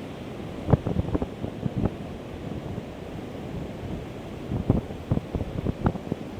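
Ocean surf and strong wind, with gusts buffeting the microphone in irregular low thumps, clustered about a second in and again from about four and a half seconds.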